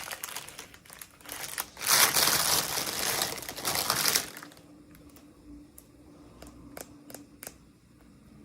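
Plastic packaging crinkling as it is handled for about four seconds, loudest in the middle, followed by a few light clicks and taps.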